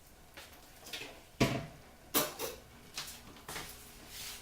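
A utensil knocking and scraping against a mixing bowl while wet ingredients are added to a batter: a handful of sharp clinks, the loudest about a second and a half in and again just after two seconds.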